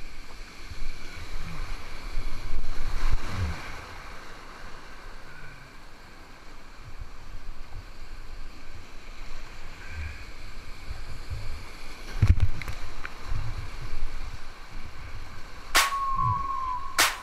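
Wind buffeting the microphone in uneven low rumbles over open water, with faint water sounds. Near the end come two sharp clicks, each followed by a short high tone.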